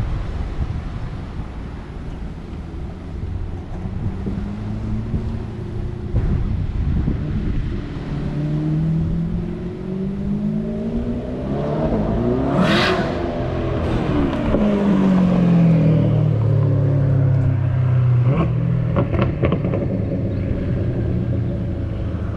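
Twin-turbo C8 Corvette's LT2 V8, running through a custom turbo-back exhaust, driving past. The engine note builds to its loudest about halfway through and then fades as the car moves away.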